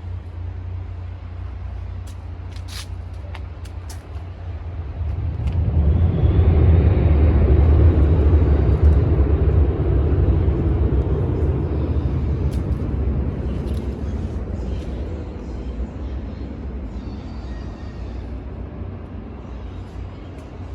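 Vehicle noise: a steady low rumble, with a few sharp clicks early on. About five seconds in, a broad rushing sound swells up, is loudest for a few seconds, then slowly fades.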